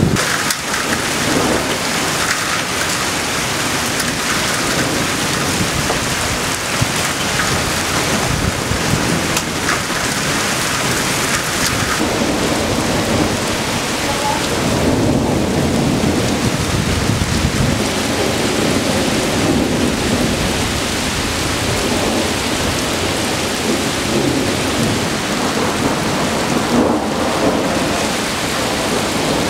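Heavy rain falling in a thunderstorm: a dense, steady hiss of rain that keeps up without a break.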